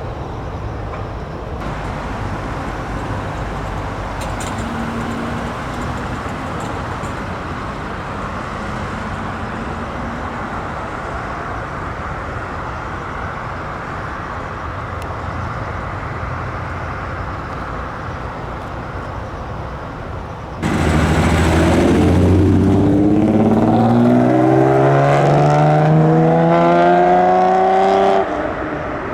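Steady engine and road noise, then, about two-thirds in, a car engine accelerating hard, its pitch climbing steadily for about seven seconds. Near the end it shifts up, with a brief drop in sound before it pulls again at a lower pitch.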